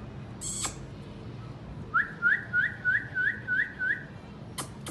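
Indian ringneck parrot whistling: a short shrill squeak, then a run of seven quick rising whistled notes, about three a second, followed near the end by sharp high chirps.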